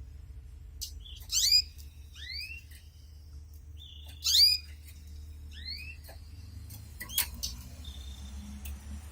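Canary calling with short, rising chirps: two loud ones about three seconds apart, each followed a second later by a softer one, then a sharp click near the end, over a steady low hum.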